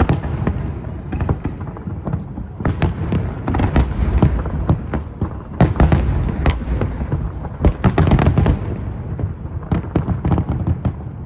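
Aerial fireworks shells bursting, many sharp bangs and crackles in quick succession over a continuous low rumble, thickest in the middle of the stretch.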